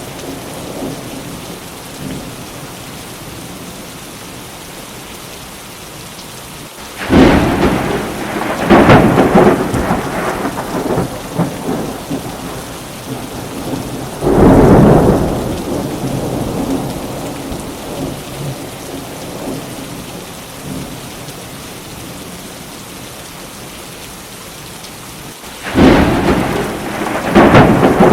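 Steady rain with thunder: three loud cracking peals, about seven seconds in, about fourteen seconds in and near the end, each rumbling away over a few seconds.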